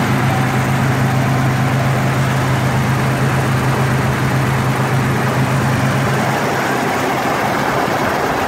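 1990 Toyota 4Runner's 3.0-litre V6 idling with the hood open: a steady engine sound with a strong low hum that fades about seven seconds in.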